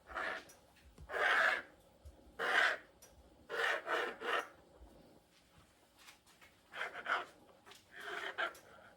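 A blade drawn repeatedly through rolled dumpling dough, rasping on the surface beneath: about ten separate scraping strokes, each around half a second long, with a short gap in the middle.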